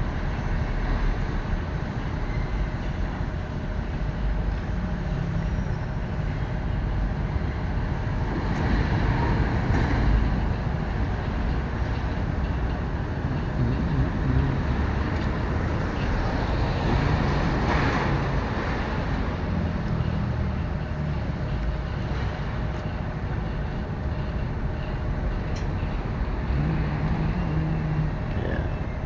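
Steady low rumble of a motor vehicle with road or engine noise, even in level throughout, with no distinct knocks or events.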